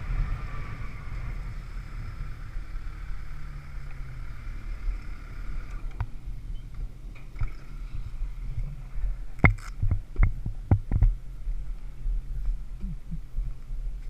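Motorcycle engine running at low speed with wind on the microphone; its higher engine note drops away suddenly about six seconds in, leaving a low hum. Several sharp knocks or clicks follow a few seconds later.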